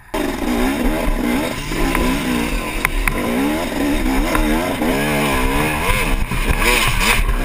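Dirt bike engine revving under load, its pitch rising and falling over and over as the throttle is worked, with a couple of sharp clicks about three seconds in.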